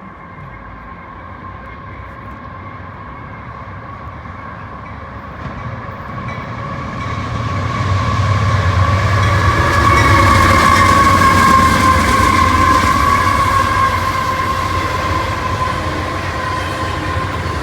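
CSX intermodal freight train approaching and passing close by, getting louder to a peak about ten seconds in and then easing a little. Steady high tones ring over the rumble of the locomotives and cars.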